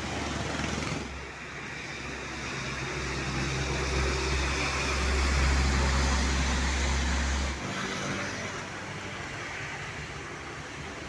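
Heavy truck's diesel engine running as it passes along a road with traffic noise, growing louder towards the middle. The sound changes abruptly about a second in and again about two-thirds of the way through.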